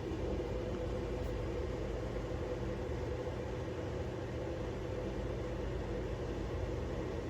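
Steady low hum with a layer of hiss, unchanging throughout, like a small appliance or motor running.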